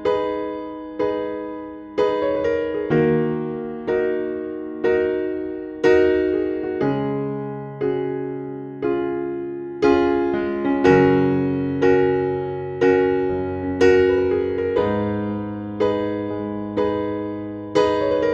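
Background music: a slow electric piano melody, one note or chord struck about once a second and left to fade.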